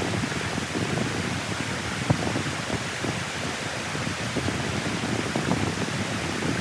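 Steady rushing of water flowing through a clogged dam drain, with one brief knock about two seconds in.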